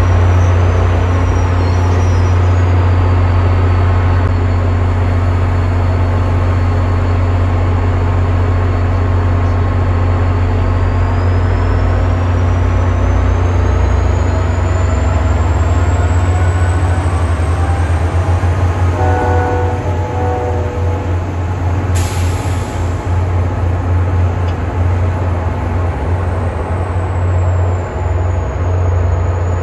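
MBTA diesel commuter train passing and pulling away: the locomotive's engine drones steadily low, with a thin high squeal that rises and falls. Short chord-horn notes sound faintly about two-thirds through and again right at the end.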